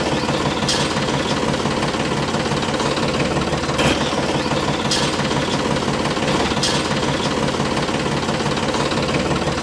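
A small engine running steadily, with a few faint ticks over it.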